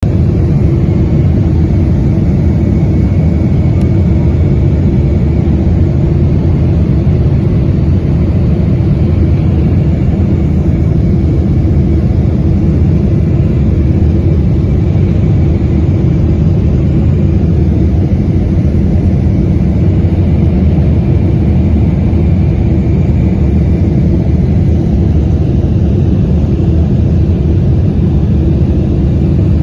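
Aircraft engine noise: a loud, steady low rumble with a faint high whine, unchanging throughout.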